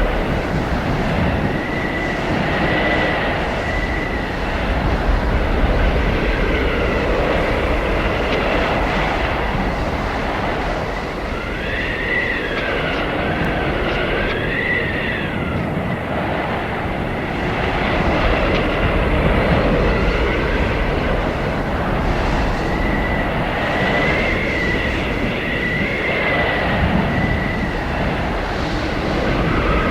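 Blizzard wind blowing hard and steadily, with a high whistling howl that rises and falls in pitch, strongest about halfway through and again near the end.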